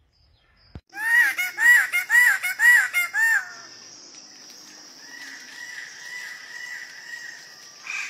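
A bird calling. About a second in comes a run of six loud rising-then-falling calls, roughly two a second. After that come quieter repeated notes over a steady high hiss.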